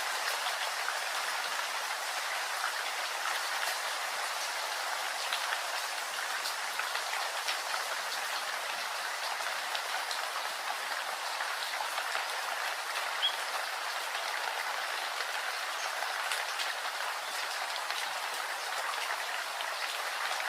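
Steady rain falling, an even hiss dotted with faint ticks of individual drops.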